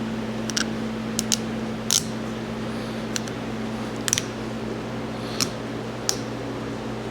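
Light, sharp metal clicks and taps, about eight of them at uneven intervals, from the tractor hydraulic pump's plate and parts being handled and nudged into line over a new gasket. A steady low hum runs underneath.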